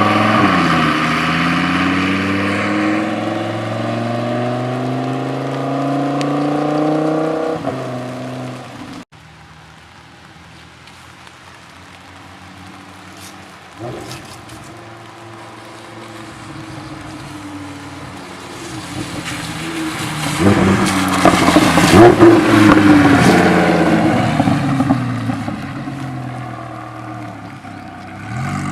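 2015 Lamborghini Huracán's V10 through a Fabspeed Supersport exhaust, accelerating hard with rising pitch and shifting up. After a sudden cut, the car accelerates toward the listener from afar and passes close by about three quarters through, loudest there, the pitch falling as it goes away.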